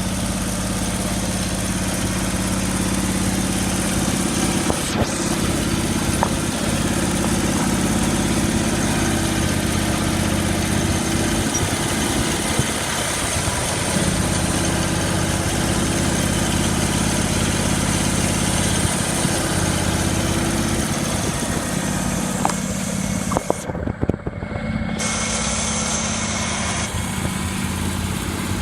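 Simplicity Sovereign riding lawnmower's engine running steadily at a constant speed. Near the end the sound dips briefly, with a few sharp clicks.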